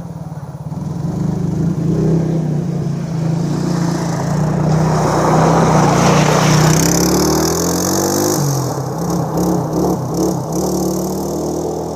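Engine of a ridden motor vehicle running steadily, with a broad rush of noise in the middle. Near the end the pitch dips and wavers as it is revved.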